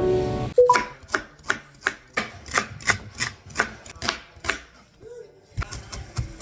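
A kitchen knife chopping on a cutting board: about a dozen quick, even strokes, roughly three a second, over about four seconds.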